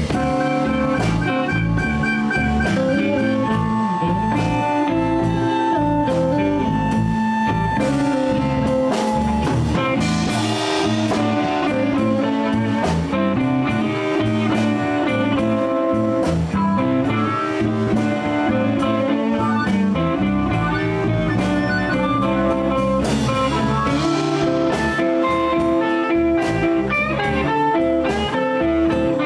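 Live blues band playing: electric guitar over bass and drum kit at a steady beat.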